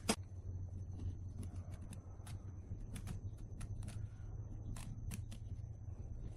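Scattered light clicks and taps over a steady low hum and a faint high-pitched whine, with one sharper click right at the start.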